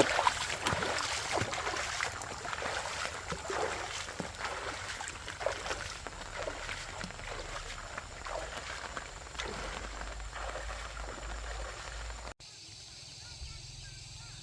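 Dense rustling and crackling with many sharp clicks, like dry plant material being handled or pushed through. About twelve seconds in it cuts off suddenly to a quieter background with a low hum and faint chirping.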